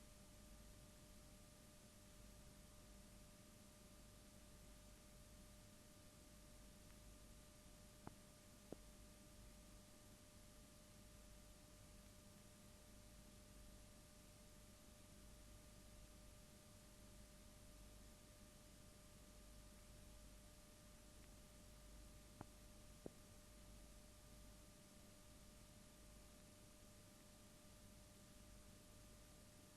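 Near silence: faint steady hiss and a faint steady hum tone, with two pairs of faint clicks, one about eight seconds in and one about twenty-two seconds in.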